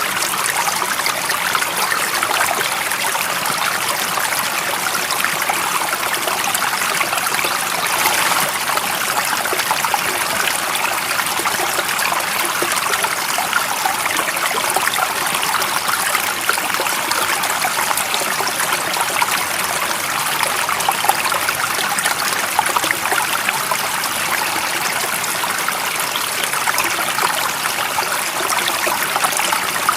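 Running water in a small stream, a steady babbling and trickling over stones with fine splashes throughout.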